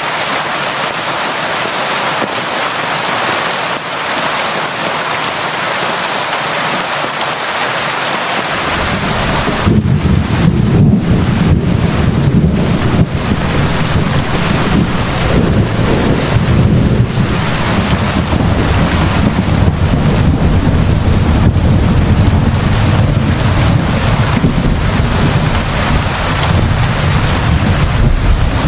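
Steady heavy rain hissing, then about nine seconds in a long low rumble of thunder rolls in and keeps rumbling under the rain.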